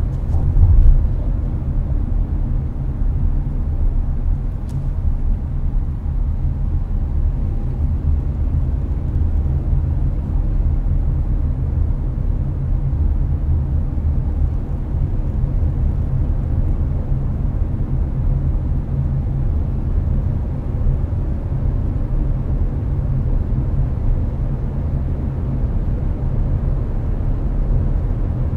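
Inside a Hyundai Avante at highway speed: a steady low road and engine rumble, with the air conditioner blowing. There is a brief louder thump just under a second in.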